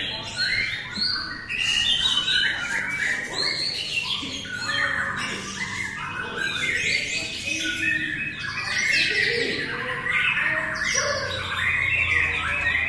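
Several white-rumped shamas (murai batu) singing over one another: a dense, unbroken stream of rapid whistles, trills and chattering phrases.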